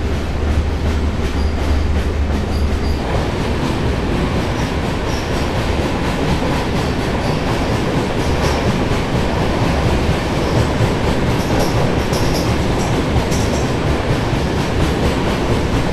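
LHB sleeper coach of an express train running at speed through a tunnel, heard at the open door: a loud, steady rumble of wheels on rail and rushing air, with a few faint, brief high squeaks.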